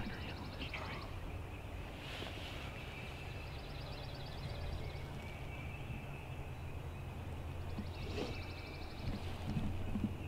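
Dawn woodland ambience: a songbird sings a short, high, dry trill three times, a few seconds apart, over a steady low hum.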